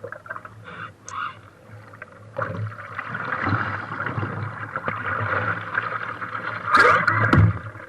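Wind and water noise from the harbor: a steady rushing that comes in about two seconds in and swells briefly near the end.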